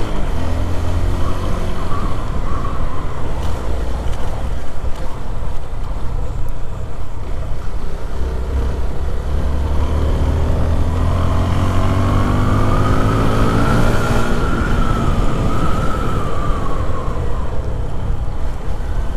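Small motorcycle engine running under way, with a steady low rumble. About nine seconds in the engine note climbs as it accelerates, then falls back a few seconds later.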